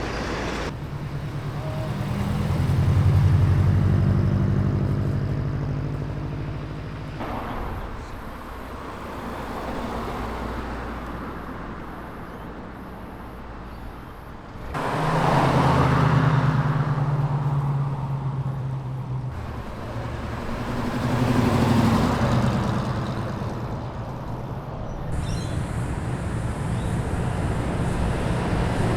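Car engines accelerating away one after another in a string of short cuts. Each engine note swells louder and then fades as the car pulls past, with the loudest passes about three seconds in, around halfway, and again a few seconds later.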